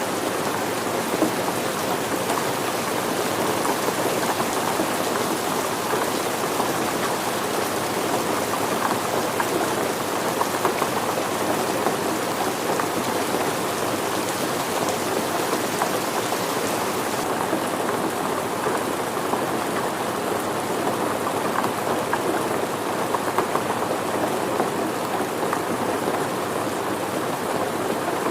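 Steady rain falling, a dense even patter of many drops on surfaces. About two-thirds of the way through, the high hiss becomes a little duller.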